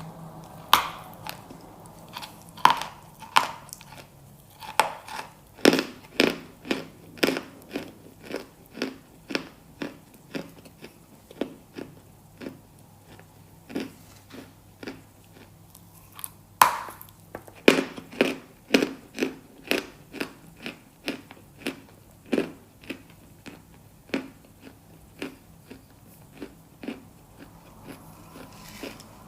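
Close-miked biting into something hard and brittle, each bite a sharp crunch, followed by runs of crunchy chewing at about two chews a second. Fresh loud bites come several times, about six seconds in and twice more near the middle.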